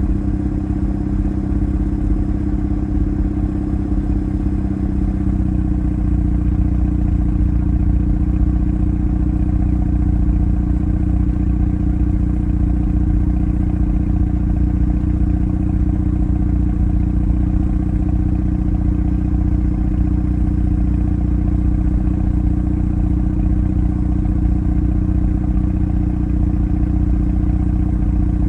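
Mazda RX-7 FD3S's twin-rotor 13B rotary engine idling steadily through its stock muffler, its exhaust note dropping slightly lower about five seconds in.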